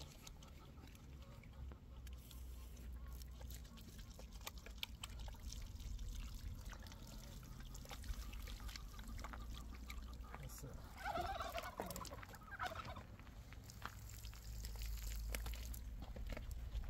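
A short call from a farm bird about eleven seconds in, over a low rumble and scattered clicks.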